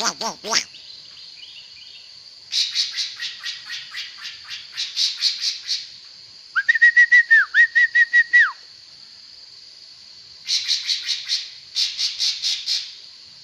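Songbird singing in bursts of fast, chattering high notes, with a run of about a dozen quick whistled notes in the middle, the phrases separated by short pauses.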